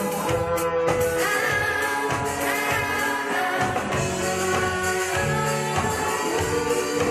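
A band playing a song with a singing voice over it, with steady drum hits under held chords.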